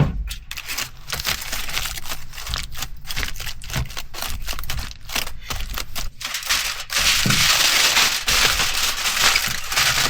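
Aluminium foil crinkling and rustling as it is handled, with irregular crackles at first and a denser, continuous crinkle from about seven seconds in.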